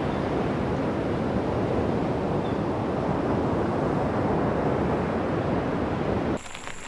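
Steady, loud rushing noise of outdoor ambience, like surf or wind. About six seconds in it cuts off abruptly to a quieter scene with a high, steady insect trill.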